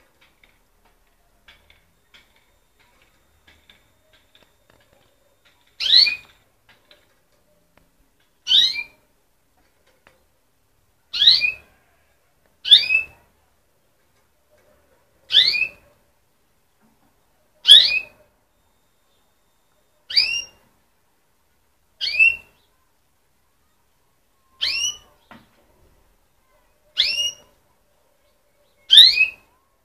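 Young canary chirping: a short, sharp upward-sweeping call repeated about every two seconds, starting about six seconds in after a few faint clicks.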